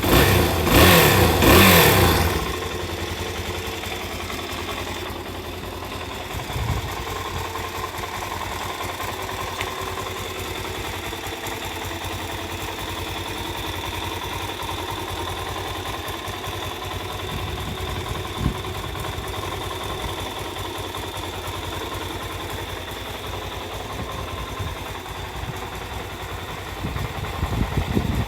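Suzuki DR-Z400S single-cylinder four-stroke engine breathing through its stock muffler, revved hard for about two seconds at the start, then idling steadily. Brief throttle blips about six seconds in and again near the end.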